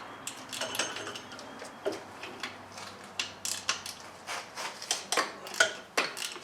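Metal hand tools and engine parts clinking and clicking irregularly as they are handled, with many short sharp knocks throughout.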